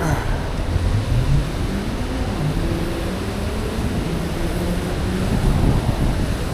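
Road traffic at an intersection: vehicle engines whose pitch rises and falls as they pull away and pass, over a steady low rumble.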